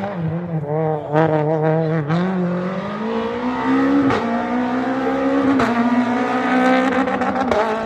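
Rally car engine under hard throttle. The revs wobble on and off for the first couple of seconds, then climb steadily for about four seconds and drop near the end. Several sharp cracks come along the way.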